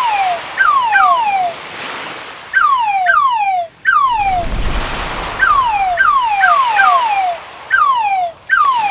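A cartoon-style crab sound effect: a dozen or so short whistle-like chirps, each falling in pitch, in clusters of two or three, over the steady wash of surf that swells about halfway through.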